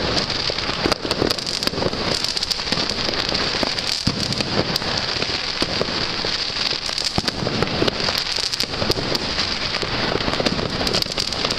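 Many fireworks and firecrackers going off at once: a dense, unbroken crackling with frequent sharp bangs and no let-up.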